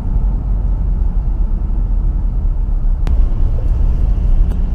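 Steady low rumble of a Volkswagen Amarok pickup being driven, engine and tyre noise heard from inside the cab, with a single sharp click about three seconds in.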